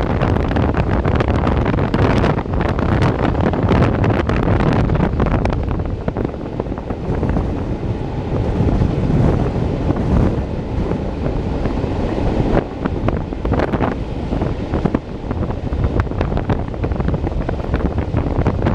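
Heavy wind buffeting a microphone held out of a moving train's window, in irregular gusts, over the low rumble of the train running along the track.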